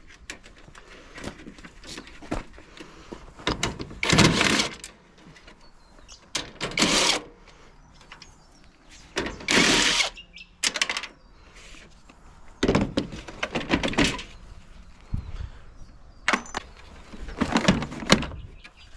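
Power drill running in about six short bursts as it backs screws out of a washing machine's front panel, with clicks and knocks between them.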